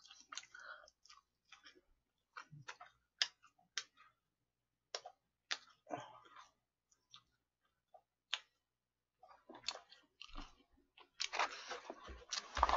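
A person chewing fried chicken, close to the microphone: scattered soft crunches and wet mouth clicks, growing busier near the end.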